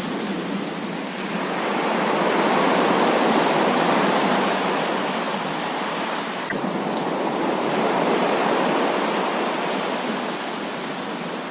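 Heavy rain pouring steadily as an even hiss, swelling louder twice.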